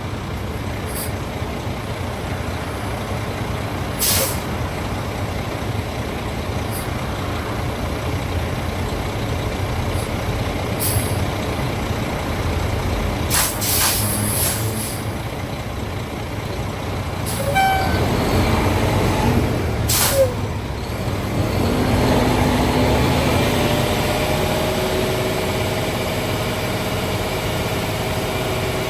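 Cat CT660S dump truck's CT13 diesel running, with several short, sharp hisses of air released from its air system. About two-thirds of the way in, the engine note rises and holds steady.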